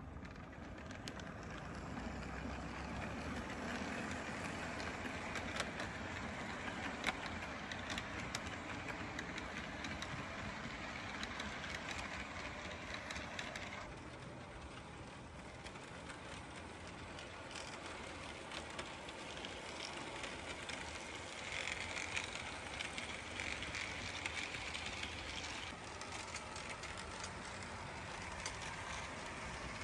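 HO-scale Athearn Genesis SD70M model locomotive running on DC-powered track: a steady motor and gear whir with small clicks from the wheels on the rails. The sound drops a little about halfway through and shifts again near the end.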